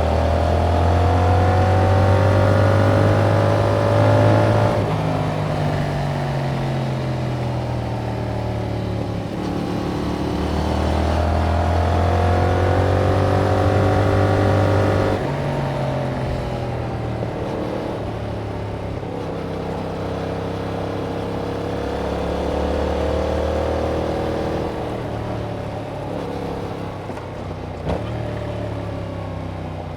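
2021 Yamaha MT-07's parallel-twin engine on its stock exhaust, heard while riding. It climbs in pitch under throttle, drops suddenly about five seconds in, climbs again, and drops suddenly again about halfway through, the way revs fall at a gear change or when the throttle is shut. It then runs at lower, steadier revs with gentle rises and falls.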